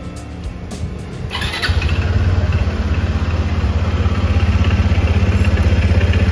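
Kymco KRV180 scooter's single-cylinder engine starting a little over a second in and then idling with a fast, even beat. It runs without the rumble or clacking at start-up that the repair was meant to cure.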